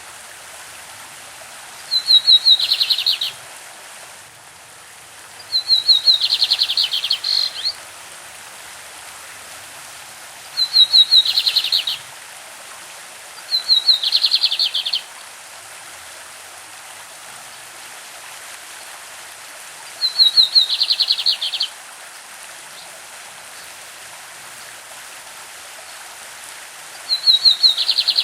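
Lined seedeater (bigodinho) singing its classic song: six short phrases of rapid repeated high notes, each about a second and a half long, several seconds apart. A steady rush of a stream runs beneath.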